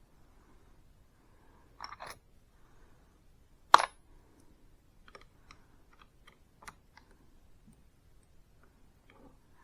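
Hand tools being handled: a short scraping clunk about two seconds in, one sharp knock a little before four seconds, then a string of light clicks and taps.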